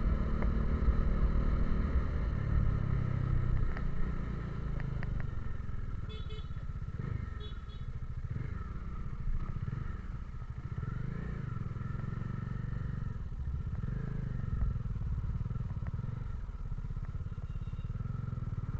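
Motorcycle engine running, its pitch rising and falling as it is ridden; loudest in the first few seconds.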